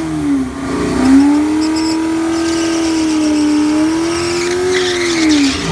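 Drag car's engine held at high revs in a burnout, the rear tires spinning; the engine note dips once about half a second in, holds steady with a slight waver, and drops off near the end.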